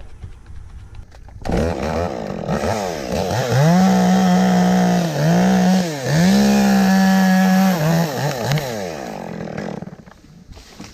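Two-stroke chainsaw revving up about a second and a half in and cutting wood at full throttle, its pitch dipping several times as the chain bogs under load in the cut. It drops off near the end.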